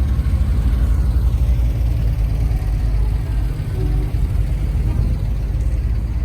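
Antique car engine running with a steady low rumble.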